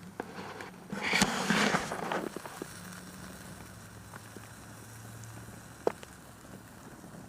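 Campfire crackling and popping, with a dense burst of crackles about a second in and a sharp pop near six seconds.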